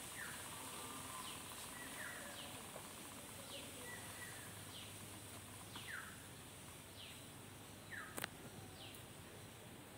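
Faint background hiss with a small bird calling again and again: short falling chirps, roughly one a second. A single sharp click comes about eight seconds in.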